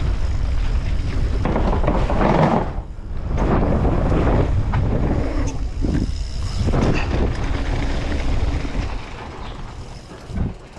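Wind buffeting a GoPro microphone and mountain bike tyres rolling over a dirt trail during a downhill run. The rushing noise swells and eases several times and dies down toward the end, where there is one short knock.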